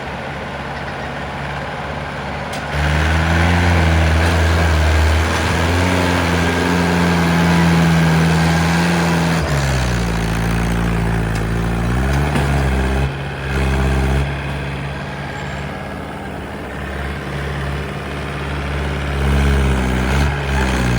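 Backhoe loader's diesel engine revving up under hydraulic load about three seconds in, held high for several seconds, then easing back near the middle and revving up and down repeatedly as the machine works.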